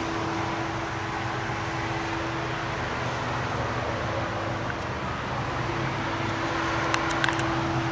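2008 Hummer H2 standing still with its engine or climate blower running, a steady hum and hiss heard from inside the cabin, with a few light clicks about seven seconds in.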